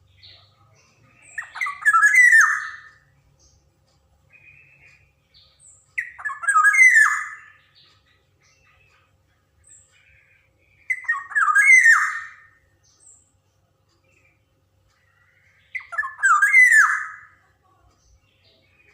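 Black-naped oriole (kepodang) giving harsh, squawking calls, four in a row about five seconds apart, each lasting about a second and a half, with faint short notes between them.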